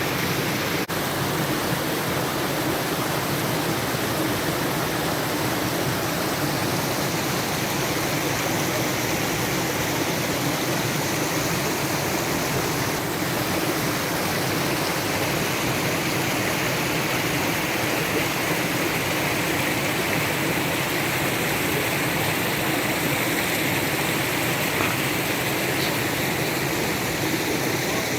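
Forest stream flowing and splashing over rocks, a steady rushing of water close by.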